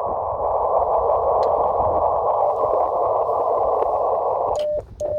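Audio from a 47 GHz amateur radio receiver: a steady, rough hiss held in a narrow pitch band, as a rain-scattered signal sounds through a narrow receive filter. Near the end it cuts out, with two short beeps at one pitch.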